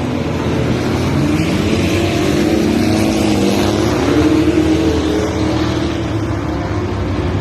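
Car engine running hard during a race, its pitch rising and falling as the throttle is worked, over a loud rush of road and wind noise.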